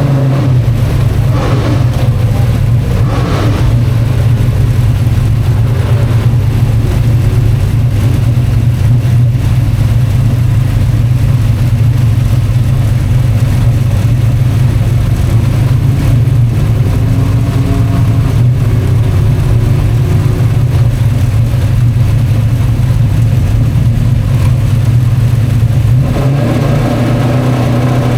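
Big-block dirt modified race engines running with a loud, steady drone that holds without a break.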